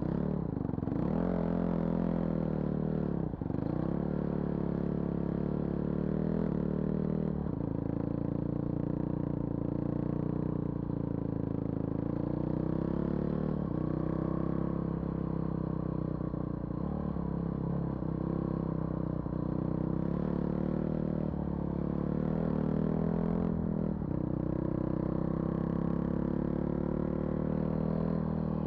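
Vehicle engine running under changing throttle, its pitch dropping sharply and climbing again several times as it shifts gear, with some rattling alongside.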